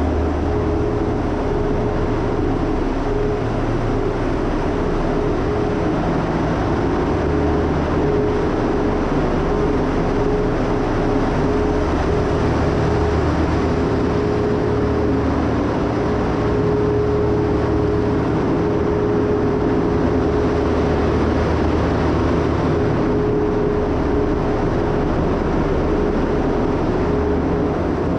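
Grain elevator's long tunnel conveyor belt and its machinery running, a loud, even rumble with a steady hum that holds without change.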